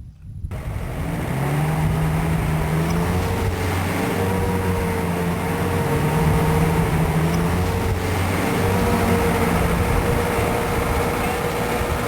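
A vehicle engine running under way, its pitch wavering up and down slightly over a steady rumble. It cuts in abruptly about half a second in.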